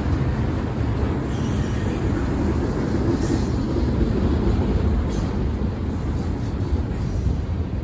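Freight train cars rolling past with a steady rumble, and brief high-pitched wheel squeals recurring about every two seconds.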